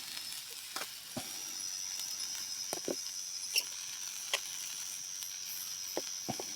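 Night rainforest insects keeping up a steady high-pitched drone, with scattered short clicks and ticks over it.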